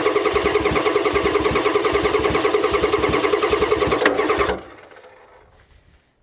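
Starter cranking a 1994 Ford F Super Duty's 7.3 IDI V8 diesel without it catching, a rhythmic chugging that stops about four and a half seconds in. The owner thinks the engine has lost its fuel prime after sitting, and the injector lines are cracked open to bleed the air out.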